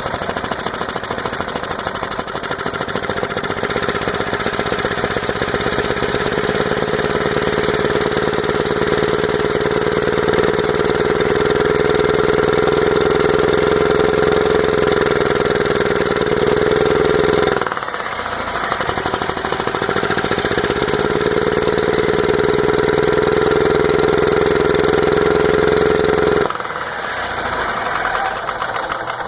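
Yamaha G2 golf cart's single-cylinder four-stroke engine running rough with the air box off, spitting fuel back out of the carburetor. The owner cannot find the cause despite good compression, spark, fuel and a new carburetor. Its speed sags and it stumbles briefly about two-thirds of the way in, picks back up, then drops lower near the end.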